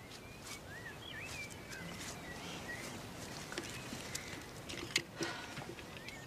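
Outdoor birdsong: birds chirping and whistling in short, bending notes, with scattered light clicks, the sharpest one near the end.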